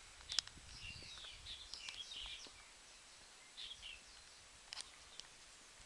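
Small birds chirping and calling in quick, short notes, in a flurry during the first half and again briefly later, with two faint sharp clicks.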